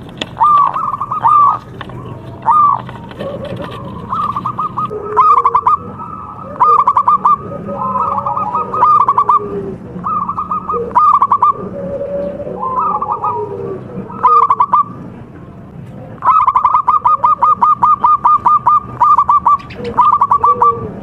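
Zebra doves (perkutut) cooing: clusters of quick staccato notes broken by softer, lower coos, with one long fast run of repeated notes about three-quarters of the way through. Several birds seem to call over one another.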